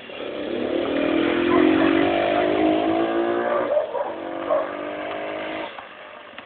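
Monkey bike (mini motorcycle) engine revving as the bike accelerates away, its pitch rising over the first few seconds, dipping briefly about four seconds in, then running on steadily and fading out near the end.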